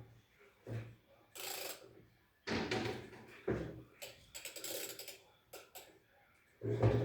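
Metal parts and tools being handled during washing machine disassembly: irregular clunks, scrapes and quick rattling clicks, with the loudest knock near the end.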